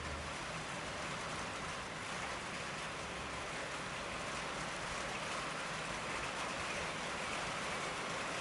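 Heavy rain pouring down, a steady, even downpour.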